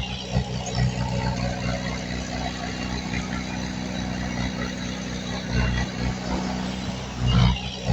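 Diesel engine of heavy earthmoving machinery running steadily, with brief louder surges a little past five seconds and again near the end.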